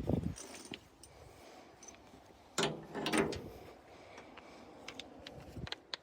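A low thump, then a short mechanical rattling clatter about two and a half seconds in, followed by a few sharp clicks near the end.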